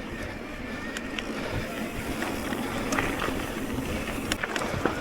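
Electric mountain bike riding on a dirt trail: steady tyre and rolling noise, with scattered sharp clicks and rattles from the bike over rough ground.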